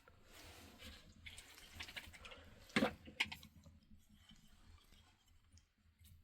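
A few faint scattered clicks and knocks, the two loudest a little under three seconds in, then quiet.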